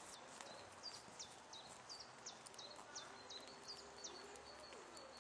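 A small bird repeating a short, high chirp about two to three times a second, faint against a quiet background.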